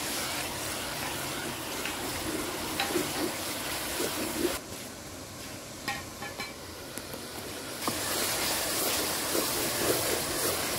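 Onion, tomato and green chilli masala sizzling in oil in an aluminium wok, stirred and scraped with a spatula. The sizzle drops lower for about three seconds in the middle, then comes back.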